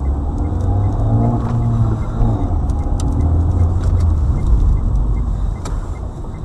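Car on the move: a steady low rumble of engine and road noise, easing off a little near the end.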